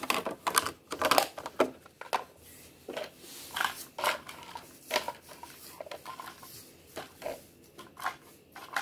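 Irregular plastic clicks and knocks from a toy rear-loading garbage truck being worked by hand, with light rustling between them.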